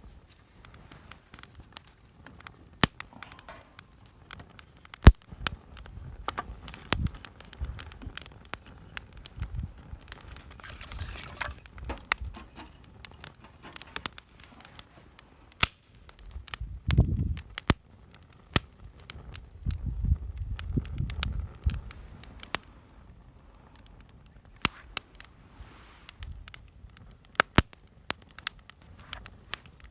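Wood campfire crackling, with irregular sharp pops, one of them loud about five seconds in. Low rumbles come in twice, in the middle and a few seconds later.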